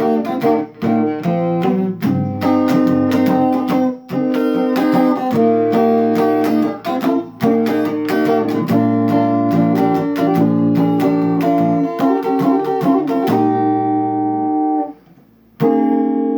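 Guitar strumming chords in a steady rhythm with no singing. Near the end a chord rings out and fades, the playing stops for about half a second, and strumming starts again.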